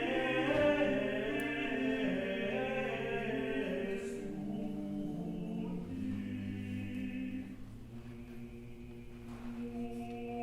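Choir singing a cappella in a slow chant, with held low notes under slowly moving upper voices; it grows softer about two thirds of the way through.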